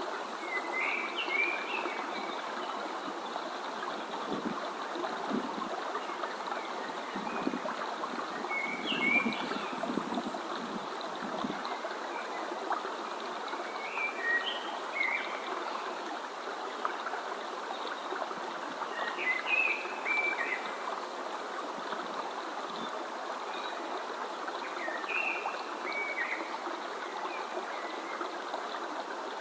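A stream running steadily, with a songbird singing short chirping phrases about every five seconds over it.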